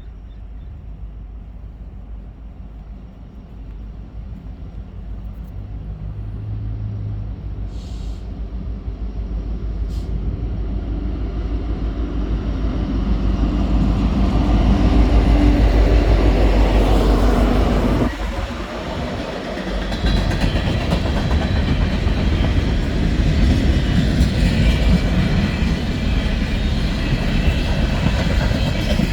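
Norfolk Southern freight train led by diesel-electric locomotives, an SD70ACe and an AC44C6M, growing steadily louder as it approaches. It is loudest a little past halfway as the locomotives pass, then empty coal gondolas roll by with wheel clatter.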